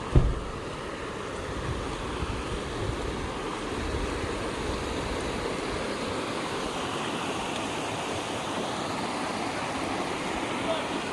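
Mountain stream rushing steadily over rocks. A single brief low thump comes just after the start, and low rumbles come and go over the first few seconds.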